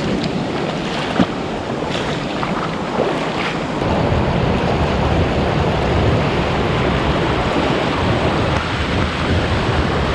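Rushing water of a fast-flowing forest stream, a steady loud hiss, with a brief knock about a second in.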